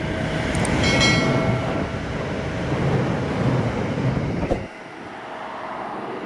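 A train running by, a steady rumble with a brief high-pitched ringing squeal about a second in. The deep rumble cuts off suddenly about three-quarters of the way through, leaving a thinner, quieter rushing noise.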